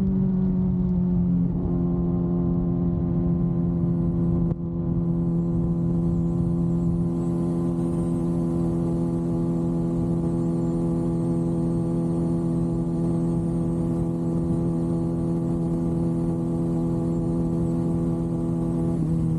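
Kawasaki ZX-6R inline-four engine running at steady, fairly high revs under way, with a rushing noise beneath it. The pitch holds almost constant, dropping slightly about a second and a half in and easing down again near the end.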